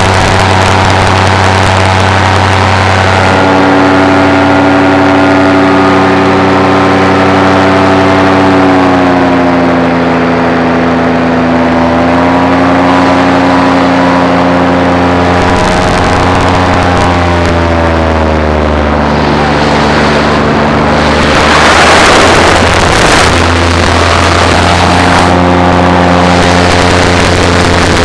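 Paramotor engine and propeller running steadily in flight, its pitch sagging and rising several times as the throttle is eased and opened. A short rush of noise, likely wind, comes about two-thirds of the way through.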